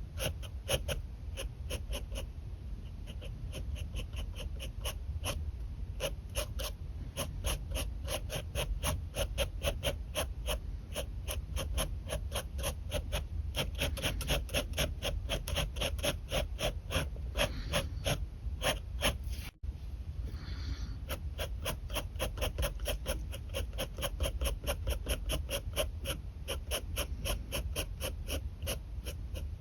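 Pen nib scratching across paper in quick sketching strokes, several a second, with one momentary break about twenty seconds in.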